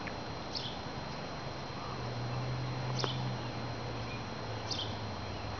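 A small bird chirping: short, high, falling calls about every two seconds, over a steady low hum.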